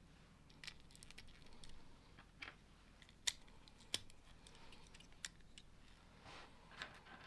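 Plastic Lego bricks being handled and pressed together: several faint sharp clicks, two of them louder in the middle, with soft rustles of pieces between.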